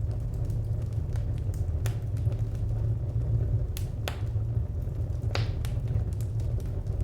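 Wood fire crackling: a steady low rumble with sharp pops and snaps scattered irregularly through it, the loudest pops about four and five and a half seconds in.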